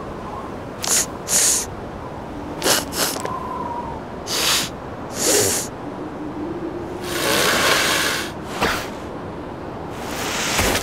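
Cartoon seal sniffing and snorting through its nose: a string of short sniffs, several in quick pairs, and a longer snorting blow a little past the middle. A faint steady hiss runs underneath.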